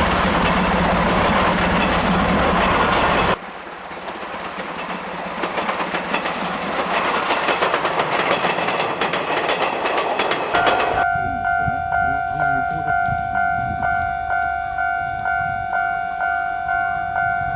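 Train of the C12 66 steam locomotive running past close by with rail clatter, across two cut-together clips. Then, after about ten seconds, a level crossing alarm rings, an evenly repeated two-tone ding.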